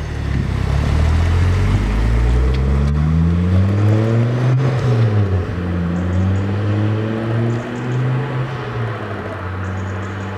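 Turbocharged Ford Focus ST engine through a 3-inch Mongoose exhaust under hard acceleration, heard from inside the cabin. The engine note climbs steadily for about four seconds, drops sharply about halfway through as at a gear change, climbs again, then eases to a steadier note near the end.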